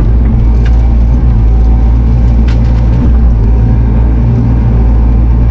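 Diesel engine of a compact Bobcat machine (mini excavator or track loader) running steadily under load, with a couple of light clanks at about one and two and a half seconds in.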